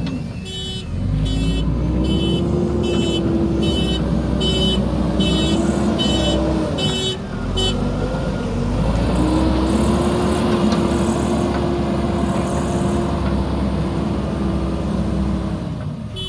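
JCB backhoe loader's diesel engine running hard, its pitch rising and falling as it revs up and down. Over the first half its reversing alarm beeps steadily, about one to two beeps a second, then stops.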